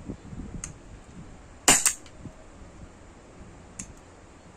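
CO2 blowback Glock 17 Gen 5 replica pistol in .43 calibre firing a rubber ball: one sharp double crack a little under two seconds in. Faint clicks come before and after it.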